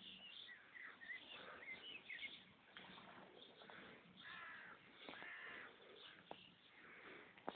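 Faint bird calls and chirps, with two longer calls a little past halfway through and a single sharp tap near the end.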